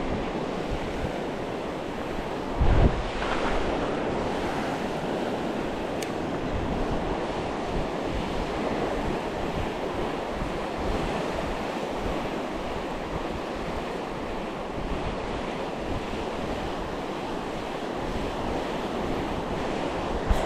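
Sea waves washing onto the shore, with wind buffeting the microphone. There is a brief loud thump about three seconds in.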